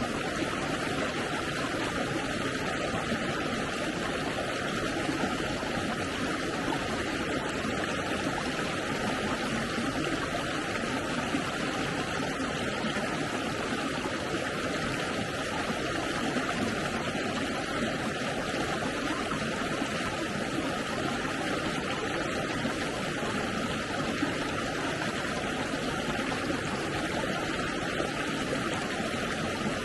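Steady rushing of a flowing stream, with no separate splashes or knocks.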